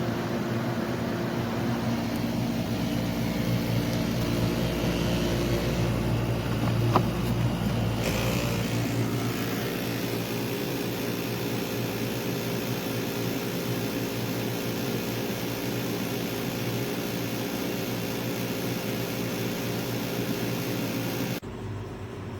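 SereneLife SLPAC8 portable air conditioner running, a steady hum of fan and compressor with several low tones. A short click about seven seconds in; shortly before the end the sound drops noticeably quieter.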